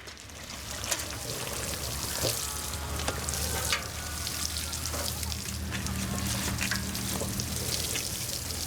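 Water sprinkling from a watering can onto garden plants and soil, a steady hiss.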